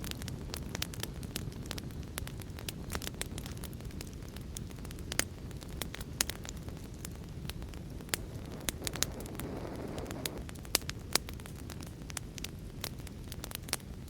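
Fire in a fireplace crackling, with frequent sharp pops of varying strength over a steady low rumble. A brief swell of hiss rises about two-thirds of the way through. The loudest pops come just after it.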